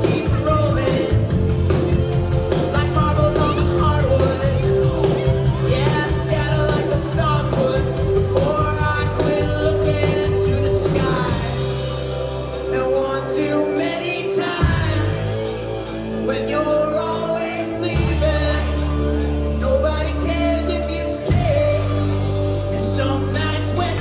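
Live rock band playing with a lead singer, amplified in a club room. In the second half the low end holds long sustained notes that change every three or four seconds.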